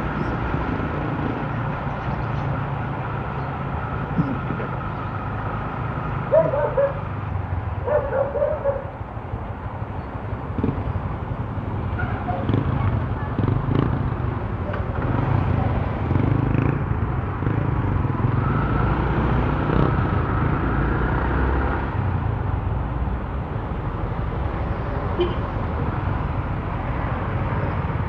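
Motorcycle running at riding speed through city traffic, a steady engine and road noise picked up on the bike. Two short pitched sounds stand out about six and eight seconds in.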